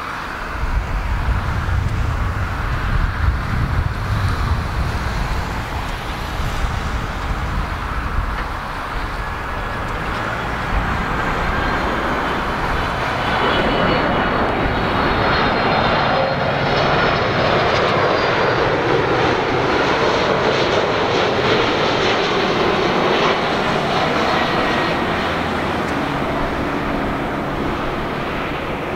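Jet airliner on landing approach, its engines growing louder with a high fan whine as it passes close by, then easing off. Gusty wind rumbles on the microphone in the first several seconds.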